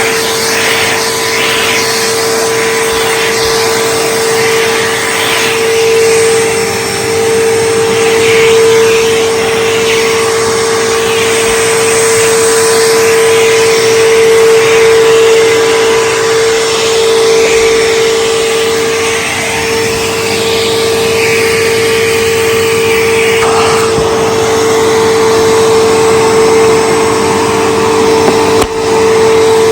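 Bissell PowerForce Bagged 3522 upright vacuum cleaner running, a steady motor whine under a rushing of air that swells and fades. There is a brief click near the end.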